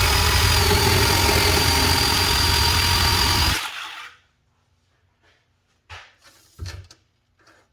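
DeWalt DCS370 18 V cordless portable bandsaw running through a cut in schedule 40 pipe, a steady motor and blade whine with a low rumble. It stops about three and a half seconds in and winds down, followed by a few light clunks.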